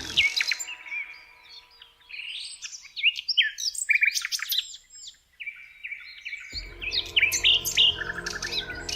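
Several small birds chirping and trilling in quick, varied notes, with short sweeping whistles and rapid trills overlapping. About six and a half seconds in, a low steady background rumble cuts back in under the birdsong.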